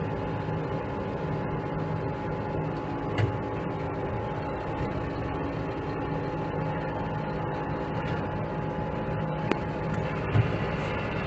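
Dump truck engine running steadily while cruising on the highway, heard from inside the cab, with two brief knocks, one about three seconds in and one near the end.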